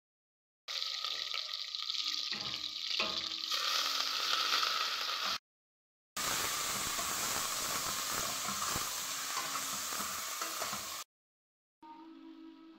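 Butter and oil sizzling in a hot stainless steel pot, then diced chicken sizzling as it fries. The sound cuts out suddenly twice for about a second, and is much quieter near the end.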